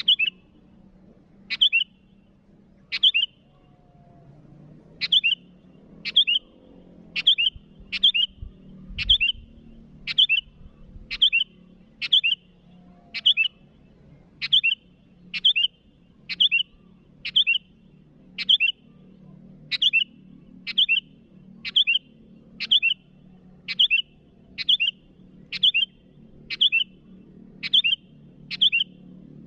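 Sooty-headed bulbul (kutilang) giving a short, sharp call over and over, about once a second, after a slower first few calls. This is the bird's calling to a rival.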